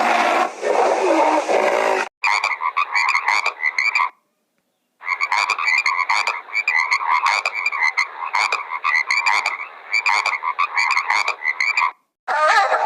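Rapidly repeated croaking animal calls in two stretches, broken by about a second of silence. Before them, for the first two seconds, a different sound with gliding pitch ends at an abrupt cut.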